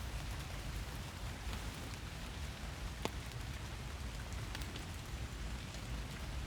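Steady rain falling in a forest, a continuous hiss with scattered individual drops pattering close by, one a little louder about three seconds in.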